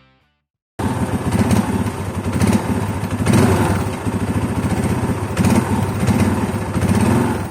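Royal Enfield Classic 500's single-cylinder engine running at low revs, coming in about a second in and swelling a few times.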